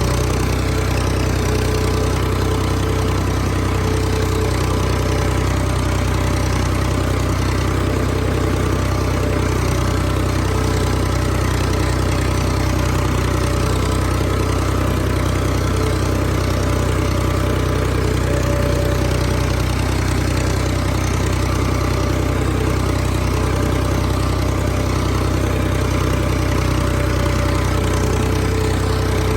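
Tractor engine running steadily at an even speed, with no change in pitch.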